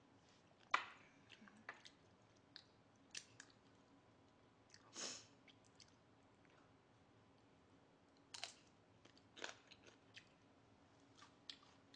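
Quiet, close-miked chewing and mouth sounds, broken by scattered short sharp clicks and a few brief crisp bites.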